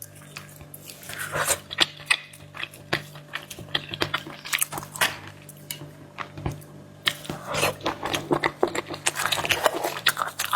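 Close-up chewing of sea snail meat, with many irregular wet clicks throughout.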